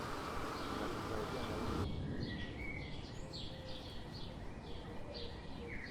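Outdoor ambience with birds chirping in short repeated calls over a steady background hiss; the background shifts abruptly about two seconds in.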